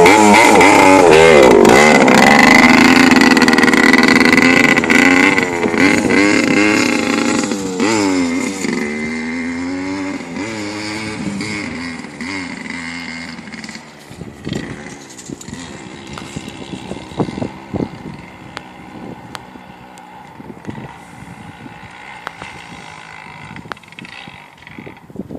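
Dirt bike engine revving up and down close by, then fading away as the bike moves off into the distance.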